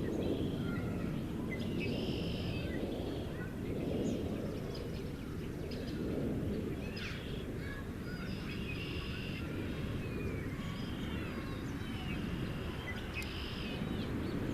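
Several birds chirping and calling over a steady low rumble.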